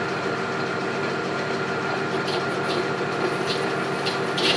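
Metal lathe running with a steady hum. In the second half come five short scratchy sounds, the last one the loudest.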